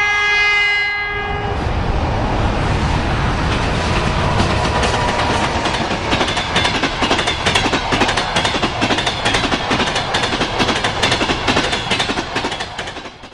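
A 2TE10M diesel locomotive sounds its horn in one blast of about a second and a half. The train then runs past, with a low rumble and the rhythmic clickety-clack of its wheels over the rail joints.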